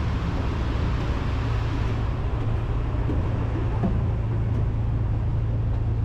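Steady low drone of a car ferry's engines, heard from on board.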